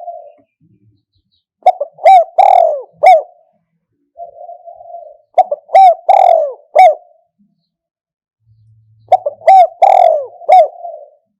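Spotted dove cooing in three loud phrases, about four seconds apart. Each phrase opens with a soft rolling lead-in followed by several clipped coos.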